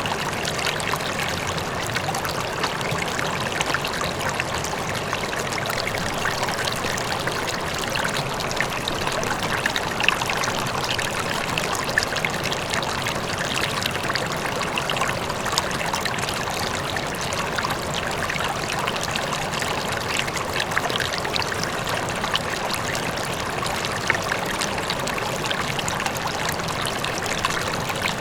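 River water flowing steadily over rocks, a continuous rushing with small splashes and trickles, with a faint waterfall in the distance.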